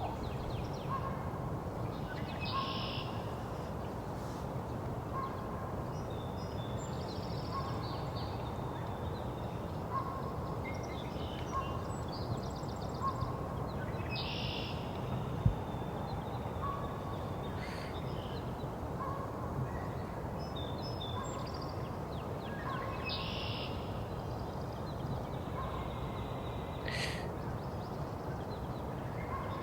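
A mixed chorus of songbirds singing and calling over a steady low rumble, with red-winged blackbird chips and song motifs among them. A short note repeats about once a second throughout, and a single sharp tap comes about halfway through.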